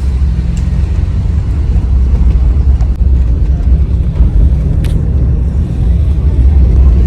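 Steady low rumble of a car on the move, road and engine noise, with one brief click about five seconds in.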